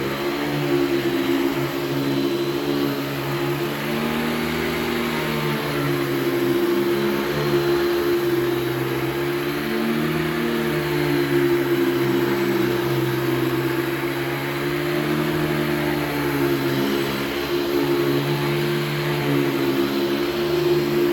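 Hoover Celebrity II Elite canister vacuum cleaner running, a steady motor hum whose pitch wavers slightly up and down.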